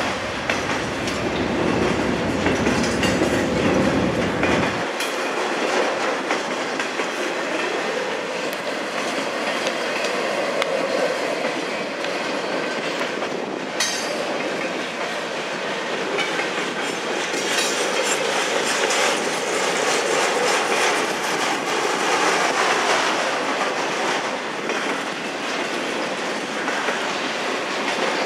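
Cars of a CSX double-stack intermodal freight train rolling past at a level crossing: steady clickety-clack of wheels on rail joints over a loud rumble. The deepest part of the rumble drops away about five seconds in, and a single sharp clank comes about halfway through.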